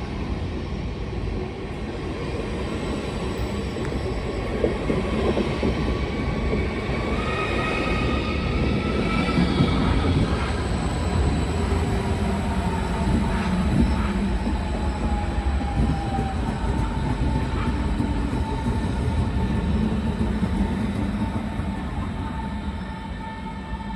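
Train running on the rails: a steady low rumble of wheels with high whining tones that shift in pitch, growing a little louder toward the middle and fading near the end.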